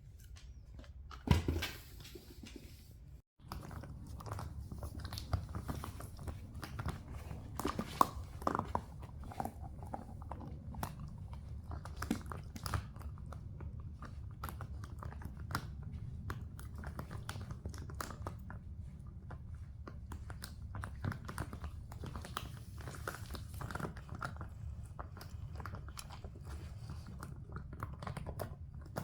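A dog crunching and chewing dry kibble, with many short crunches and clicks over a steady low hum, and a louder knock about a second in.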